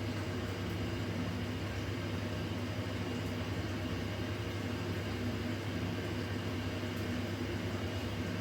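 Washing machine running, a steady low mechanical hum with no breaks or knocks.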